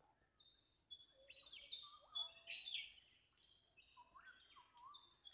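Birds calling: a string of short, fairly faint chirps and whistled notes, some sliding in pitch, loudest about two to three seconds in.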